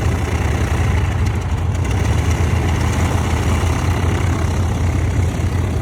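Piston aircraft engine running at idle, a steady low drone.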